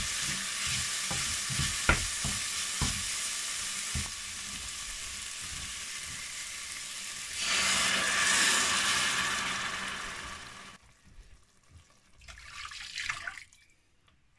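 Chopped onions sizzling in hot oil in a nonstick pot, with a wooden spoon knocking against the pot a few times while stirring. About seven and a half seconds in, water is poured into the hot pot: a louder rush of hissing and splashing that fades and then cuts off about three seconds later.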